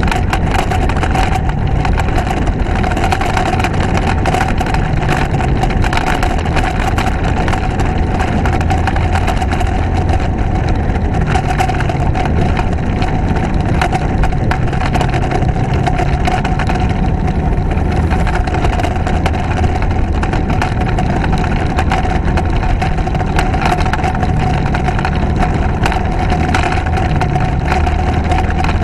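Motorcycle running steadily on the road, its engine drone mixed with heavy wind noise on the microphone.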